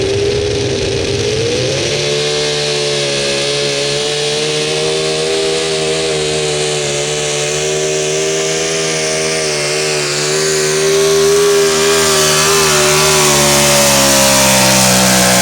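Super stock 4x4 pulling truck's engine held at high revs under full throttle during a pull, its pitch steady with slight wavering. It gets louder about two-thirds of the way through.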